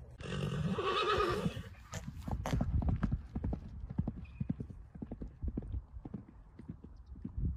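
An animal's wavering call lasting about a second and a half, then a long run of quick, irregular knocks.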